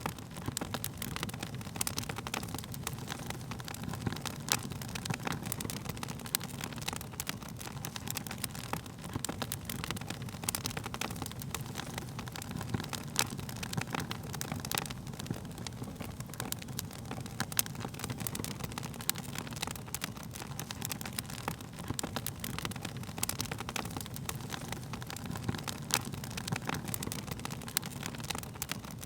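Wood fire in a fireplace crackling, with many irregular sharp pops over a steady low rush of the burning flames.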